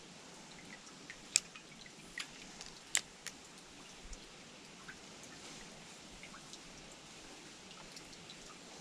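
Faint steady trickle of creek water, with a few scattered sharp clicks and drips, the loudest about a second and a half in and again about three seconds in.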